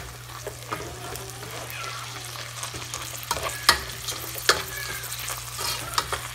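Chorizo and diced onion sizzling in a pot while a spatula stirs and scrapes through them, with a few sharp clicks of the spatula against the pot, the loudest about three and a half seconds in.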